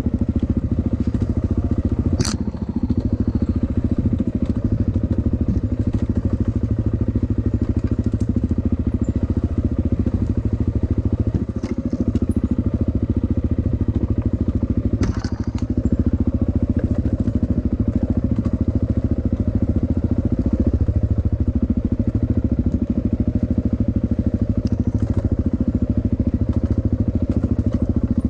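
Dirt bike engine running close to the microphone at a fairly steady speed, with a few sharp knocks: one about two seconds in, and more around twelve and fifteen seconds in.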